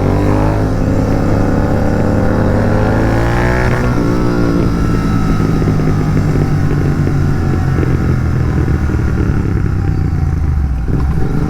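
Royal Enfield Continental GT 650's parallel-twin engine through an aftermarket megaphone exhaust, rising in pitch under acceleration for about four seconds, dropping at a gear change, then running on at a steady, slowly falling note.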